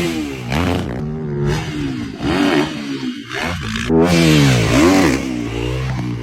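Gas dirt bike engine revving up and down over and over, its pitch rising and falling about once a second as the bike is ridden over jumps.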